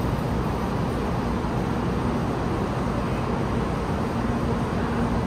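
Steady low rumble and hiss of a high-speed train at a station platform, with a faint hum and no sudden changes.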